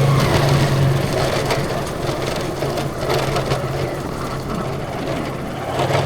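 A vehicle engine running on the move, a steady low hum that fades and returns, under rough, crackling road and wind noise with scattered rattles.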